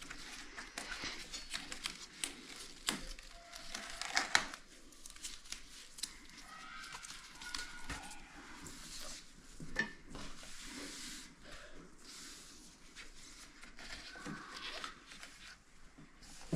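Hands working self-adhesive sealing strip: crinkling and peeling noises with scattered small clicks and taps.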